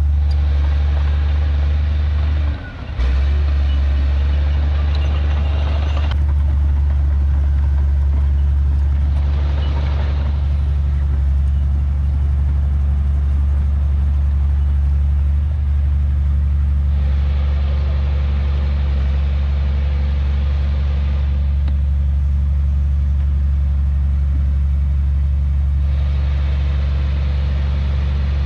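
Heavy diesel earthmoving machinery running steadily at close range, with a deep, even engine note and stretches of added higher rattling noise that come and go. The level drops briefly about three seconds in.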